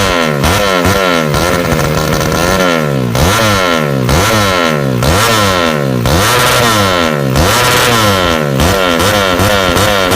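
Race-tuned Yamaha Jupiter 110 four-stroke single-cylinder motorcycle engine being revved repeatedly, its pitch rising and falling about once a second.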